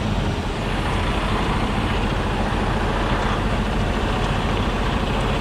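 Heavy diesel truck engine running steadily under load, a dense low rumble with a fast pulse, as the stuck loaded tractor-trailer is pulled out of mud.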